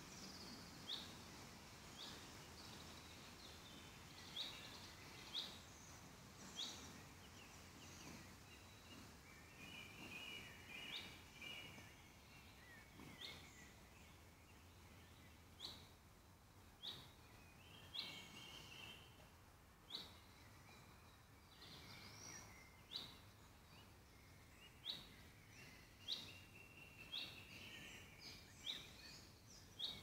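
Faint woodland birdsong: one bird repeats a short, sharp, high call every second or two, with warbling song from other birds in between.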